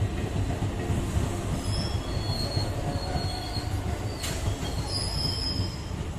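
Indian Railways ICF local train coaches rolling past close by: a steady rumble of wheels on rail, with brief high-pitched wheel squeals about two seconds in and again near five seconds, and a single sharp clank a little after four seconds.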